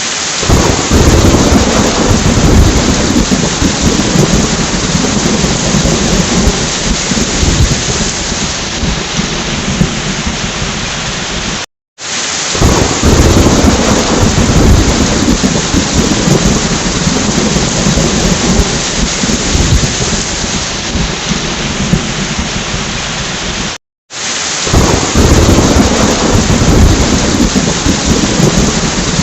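Heavy rain with rolling thunder, a recording of about twelve seconds that loops, cutting out briefly and restarting twice. The thunder rumble is loudest just after each restart.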